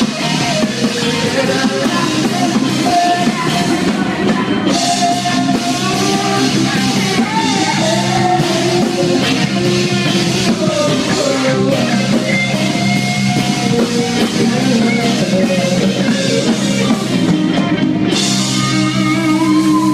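Rock band playing live: drum kit and electric guitars, the cymbals dropping out briefly and crashing back in about five seconds in and again near the end.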